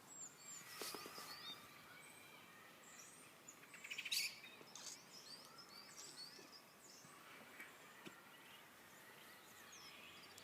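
Faint chirping of small birds: many short, high calls through the whole stretch, with a quick trill about four seconds in.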